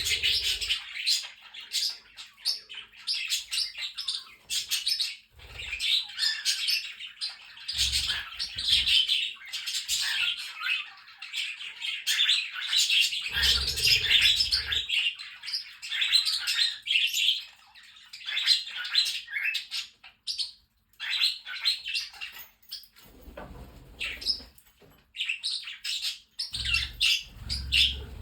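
A flock of pet budgerigars chattering and warbling without a break, with parrotlets and cockatiels chirping among them. A few short low thumps come in between.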